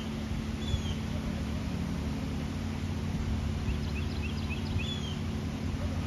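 Small birds chirping: a few short, falling call notes and a quick run of rapid notes about four seconds in, over a steady low rumble with a faint hum.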